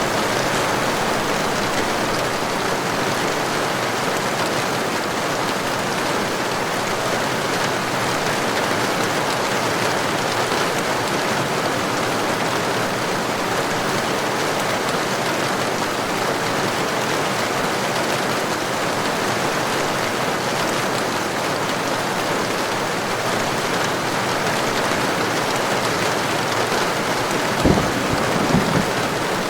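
Heavy rain falling steadily, a dense even hiss of drops. Near the end comes a brief low rumble of thunder in a few quick pulses.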